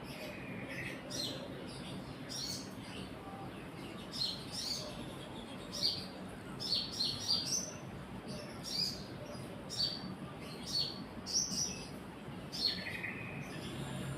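Small birds chirping: short, high chirps with quick sweeps in pitch, repeated irregularly, and a brief lower trill near the start and again near the end.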